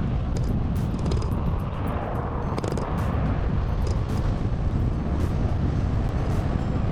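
Wind buffeting an action camera's microphone on a moving electric bike, giving a steady low rumble with scattered faint clicks and rattles.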